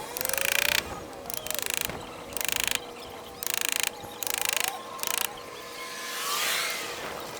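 A tool scraping old caulking and debris out of a wooden boat's plank seam in short, rasping strokes, about one a second. This is the seam being raked clean before it is primed and caulked.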